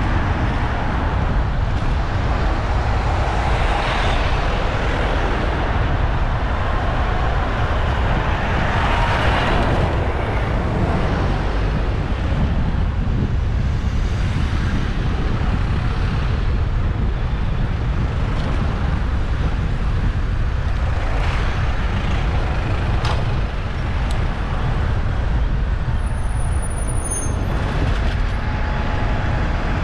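Road traffic and wind rumble heard from a bicycle-mounted action camera while riding through city streets, with vehicles swelling past twice in the first ten seconds and a brief high squeal near the end.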